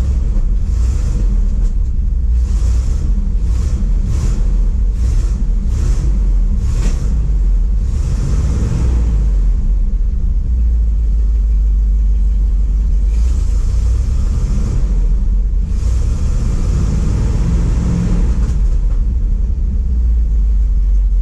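Ford F700's 370 V8 running rough with the choke off, with a run of sharp pops over the first several seconds and a few swells in engine speed later: it is backfiring through the rebuilt four-barrel carburetor a little, and it has an exhaust manifold leak.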